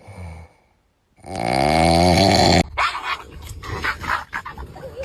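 A dog giving one drawn-out, wavering growling vocalization, loud and pitched, lasting about a second and a half. It stops abruptly and gives way to scattered light clicks and knocks.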